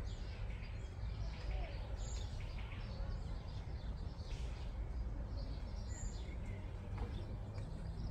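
Birds chirping and calling in scattered short notes over a steady low background rumble.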